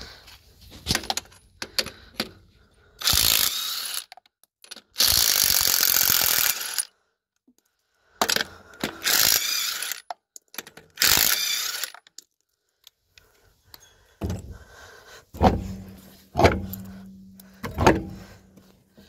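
Ratcheting, metal clanks and rattles of hand tools working on a truck's wheel and lug nuts while fitting a wheel adapter. Heavy thunks come near the end.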